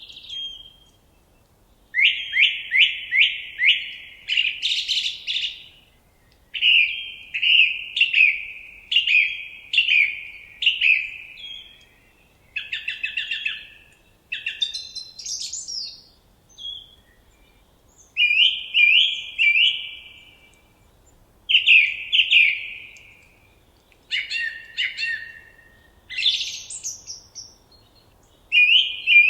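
A songbird singing in short, varied phrases, each a quick run of repeated down-slurred notes, with pauses of about a second between phrases.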